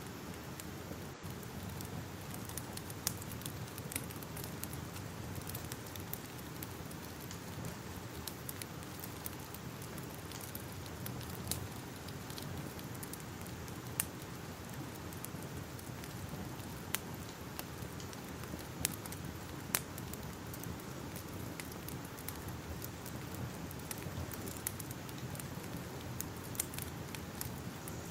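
Fire crackling: a steady hiss with sharp, irregular pops and snaps scattered through it.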